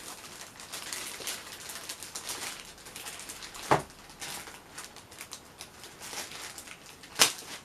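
Packaging being handled while unboxing a robot vacuum cleaner: rustling and light scraping with small ticks, and two sharper knocks, one just under four seconds in and one near the end.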